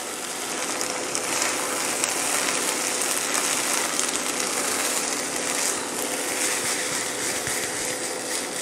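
Vegetables and boiled rice sizzling steadily in a hot nonstick pan as the rice is tipped in and stirred through with a spatula, over a faint steady hum.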